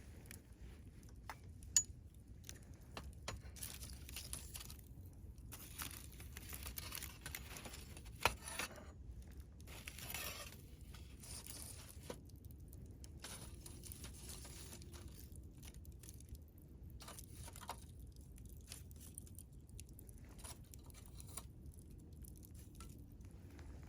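Wood campfire burning: scattered crackles and short spells of hissing, with two sharper pops, about two seconds in and about eight seconds in.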